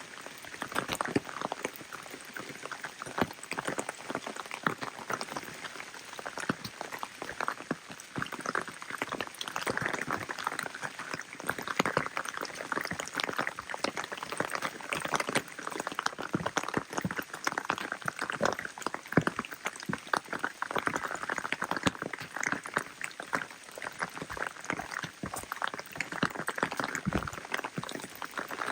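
Steady rain falling: a constant hiss with many separate drops striking close by, thick and irregular throughout.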